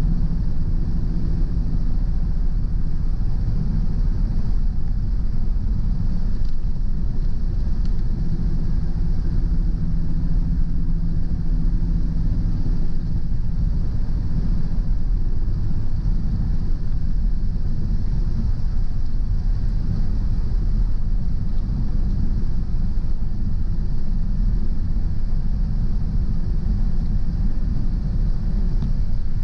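Car driving at a steady pace: a continuous low road and engine rumble with a faint steady hum, and a constant higher hiss of tyres on a wet road.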